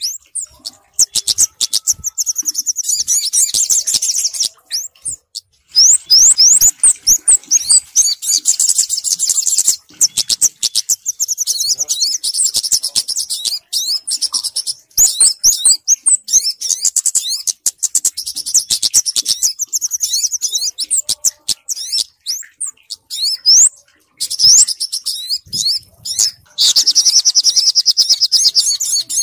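Bird-lure recording of kemade and sogok ontong calls: rapid, high-pitched chirps and trills repeated densely, with brief pauses between runs.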